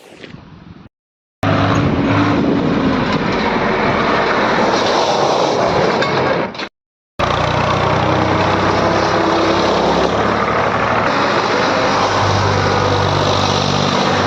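HMT 3522 tractor's diesel engine running steadily and loudly, cut off twice by brief silent edits. A short whoosh transition effect is heard at the very start.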